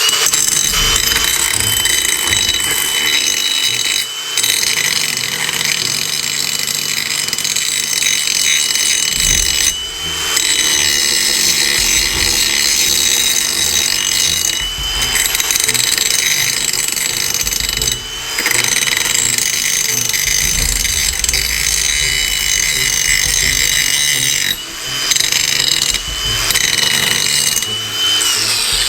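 Ryobi 18V brushless angle grinder with a cutting wheel cutting metal: a steady high motor whine under a harsh, gritty hiss of the wheel in the cut. The sound dips briefly about six times and then picks up again.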